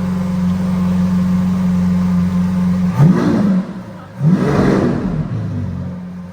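Lamborghini Countach LPI 800-4's 6.5-litre V12 idling steadily, then revved twice, about three and four seconds in. Each blip of the throttle rises sharply and falls back toward idle.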